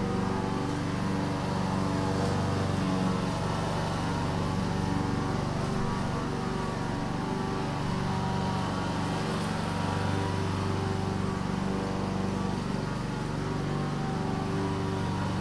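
Lawn mower engine running steadily while mowing, its low hum swelling slightly now and then.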